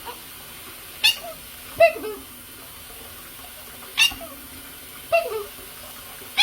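Quaker parrot vocalizing in short, sharp, high-pitched calls, about five bursts, several sliding down in pitch.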